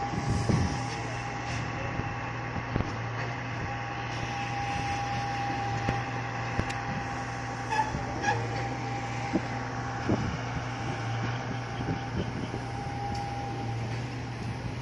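Steady engine drone with a constant whine held above it, broken by scattered light clicks and knocks.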